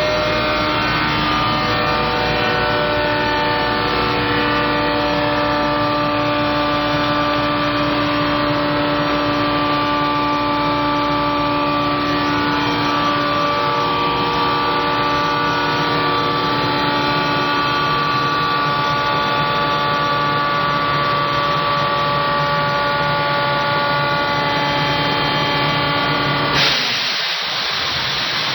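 AR-2 rotary electric air compressor on a Shonan Monorail 500 series car running, a steady whine of several tones, a few of them drifting slowly in pitch. Near the end the whine cuts off suddenly and a hiss takes over.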